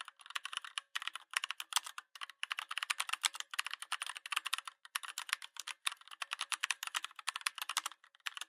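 Rapid typing on a computer keyboard: a quick run of key clicks in bursts, broken by brief pauses.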